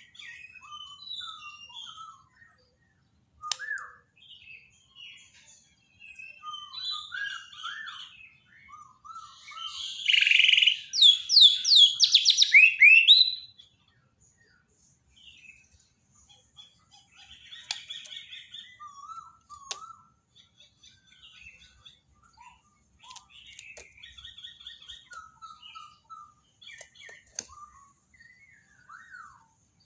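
Songbird song played as a masteran tutor recording for murai batu: a long run of short, varied whistled and chattering phrases with brief gaps. About ten seconds in comes a louder burst of rapid, sweeping high notes lasting about three seconds, then quieter phrases resume.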